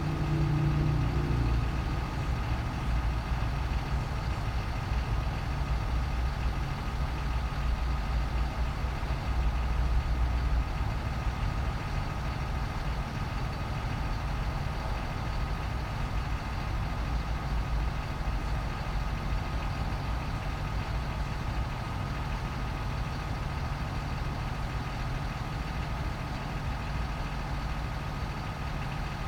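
Cummins 6.7L turbo-diesel in a Ram 4500 pickup idling steadily, a constant low rumble with a faint steady whine above it.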